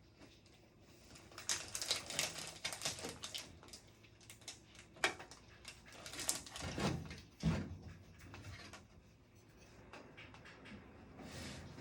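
Scattered rubbing and clicking of things handled at a study desk, with a sharp click about five seconds in and two dull thumps a little later.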